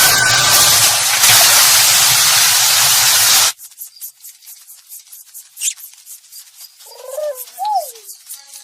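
Ocean surf rushing loudly, cutting off abruptly about three and a half seconds in. Then faint crackling clicks, and near the end a few short chirps that rise and fall in pitch, from a baby sandpiper.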